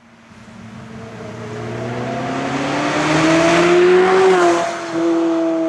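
Supercar engine accelerating hard toward and past, its note climbing steadily and loudest as it goes by about four seconds in, with a brief dip in loudness just after before it pulls on.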